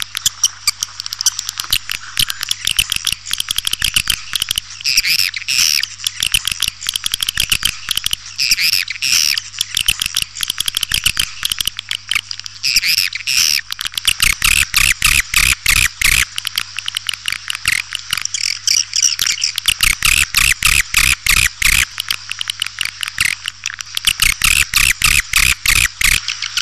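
Swiftlets chattering: a dense, continuous stream of rapid high chirps and clicking trills. It is a swiftlet call recording of the kind played to lure swiftlets into a bird house.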